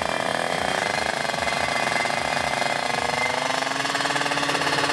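Two-stroke Kawasaki Ninja 155cc drag bike engine running with a rapid, rattling firing beat, its pitch rising slowly as it is revved up.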